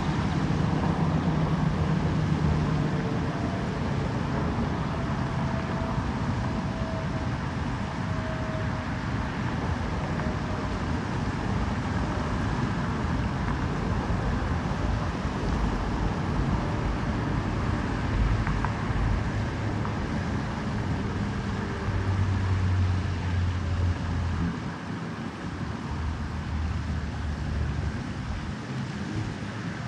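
Steady rushing noise with a low rumble that swells and eases.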